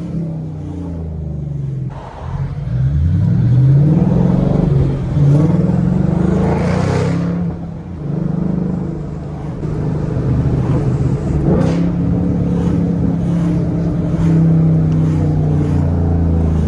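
2013 Mustang GT's 5.0 V8 with muffler and resonator deleted, accelerating with the exhaust note rising sharply in pitch, then dropping at a gear change about eight seconds in and settling into a steady loud drone.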